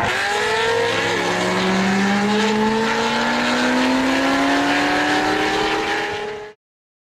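High-performance car engines accelerating hard at full throttle, their pitch climbing steadily through a single gear after a drop at the start. The sound cuts off abruptly near the end.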